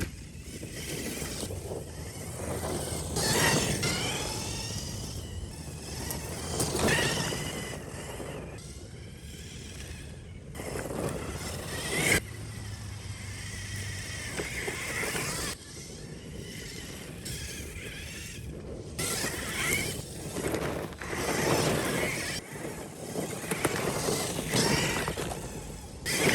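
RC4WD Miller Motorsports 1/10-scale rock racer driven fast: its electric motor whines, rising and falling in pitch with repeated bursts of speed, over a noisy haze. The sound changes abruptly several times.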